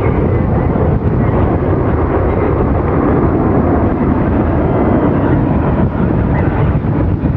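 Airbus A380's four jet engines giving a steady, deep rumble as the airliner flies its display, with wind buffeting the microphone.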